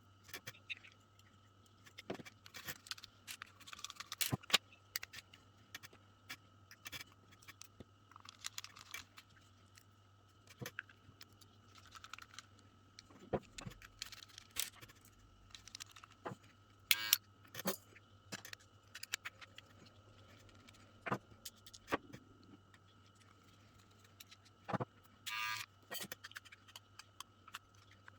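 Small plastic and metal parts of hair clippers clicking, scraping and rattling as they are taken apart, in irregular bursts over a faint steady hum.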